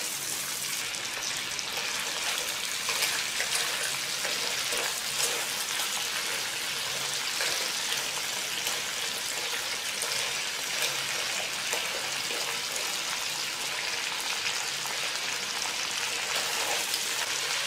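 Crab pieces frying in hot butter and oil in a wok: a steady sizzle with many small crackling pops.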